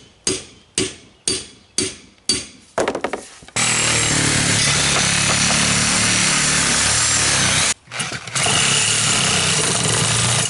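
A run of hammer blows, about two a second, then a power tool cutting steadily for about four seconds. The tool stops briefly and starts again, used to cut an old tubeless lawn-tractor tire off its rim rather than pry it off.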